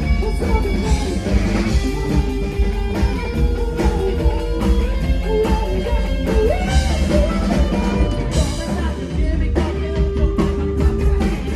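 Live band playing a rock song, with a singing voice, electric guitar, bass and drum kit.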